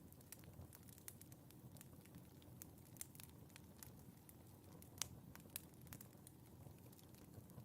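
Fireplace fire crackling faintly: scattered sharp pops over a low, steady rumble of flames, the loudest pop about five seconds in.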